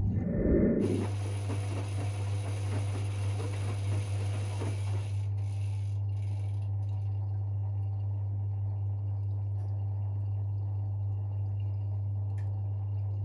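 Privileg 5020 front-loading washing machine running mid-programme: a steady low hum with some mechanical rattling, and a short louder clunk in the first second.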